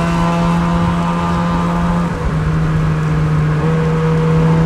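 Car engine running at steady high revs, one unbroken drone that dips briefly about two seconds in.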